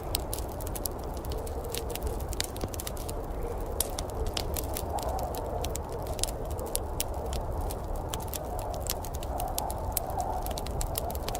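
Wood fire crackling in a fireplace, with many sharp irregular pops and snaps over a steady low rumbling rush.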